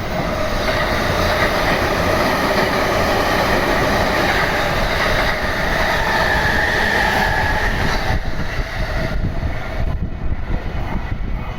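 Electric train running past on the rails, loud and steady with a high whine over the rail noise, dying away from about eight seconds in.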